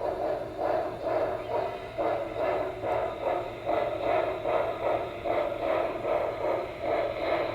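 HO scale Norfolk and Western Y6b model steam locomotive's sound decoder playing steam chuffing through its small onboard speaker, a steady exhaust beat of about three chuffs a second.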